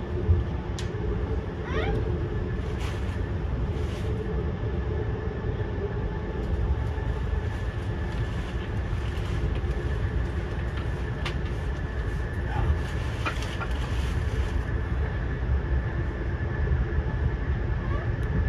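Moving train running steadily: a constant low rumble with a faint steady high whine, scattered short clicks and a few brief squeaks.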